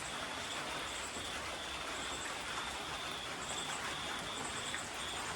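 Steady rain falling, an even hiss. A thin high tone and short high chirps repeat over it every second or so.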